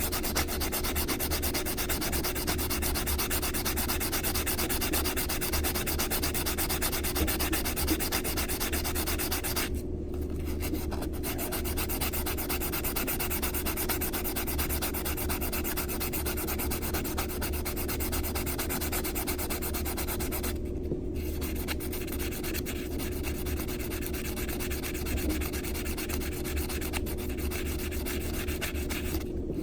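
Metal coin rings rubbed quickly back and forth on an emery nail file board, a continuous rasping that sands down their rough cut edges. The sanding stops briefly twice, about a third and two-thirds of the way through.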